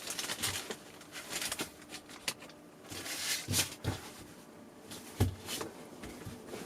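A weighted sleep mask being handled: its fabric rustling and its bean filling shifting, in irregular scrapes with a few soft clicks.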